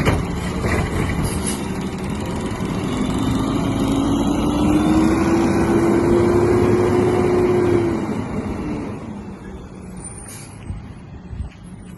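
Side-loader recycling truck running, its engine revving with a rising whine that holds for several seconds as the hydraulics work, then dropping back to a quieter idle about eight seconds in. A few short sharp sounds follow near the end.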